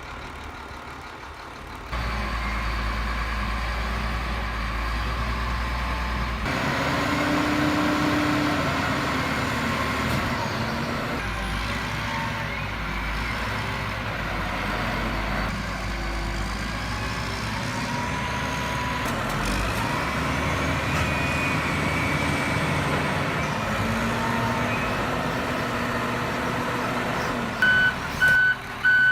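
Heavy truck engines running with a steady low hum. Near the end a vehicle's reversing alarm starts up, beeping evenly about twice a second, louder than the engines.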